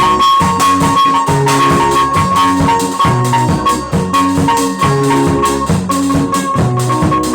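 Live band music: drums keeping a steady beat over a repeating bass line, with a steady high tone sounding above them.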